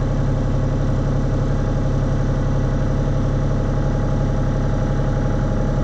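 Mini excavator engine idling steadily just after a cold start, left running to warm up.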